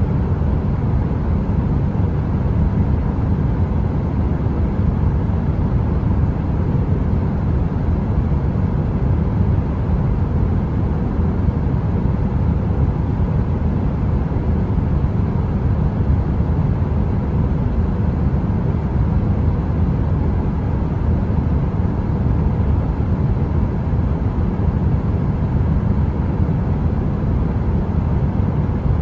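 Steady low rumbling noise of a heater running, with a faint even hum on top and no crackling.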